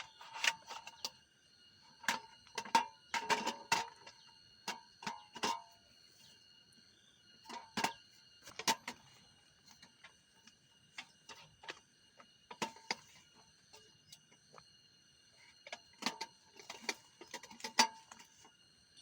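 Campfire crackling: irregular sharp pops and snaps, some in quick clusters, over a steady high chirring of night insects.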